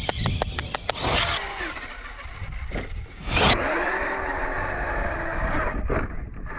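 Electric motor of an RC monster truck whining up and down in pitch as it is driven hard on grass, with a quick run of clicks and knocks in the first second.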